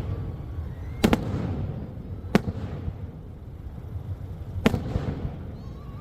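Fireworks shells bursting: a sharp double bang about a second in, then single bangs about two and a half and four and a half seconds in, over a steady low rumble.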